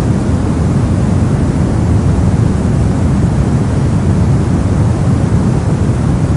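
Brown noise: steady random noise weighted to the low end, a deep even rumble with little treble.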